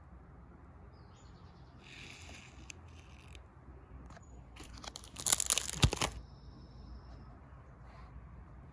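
Photo album page being handled and turned: a brief crinkling rustle about five seconds in, after fainter rustles a few seconds earlier.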